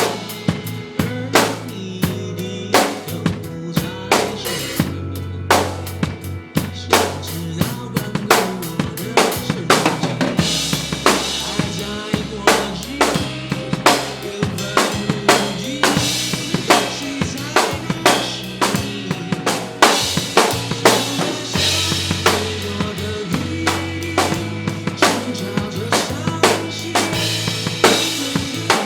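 Acoustic drum kit played live, with kick, snare and rimshot strokes in a steady groove, over a recorded backing track whose sustained bass notes change every few seconds; an instrumental passage without singing.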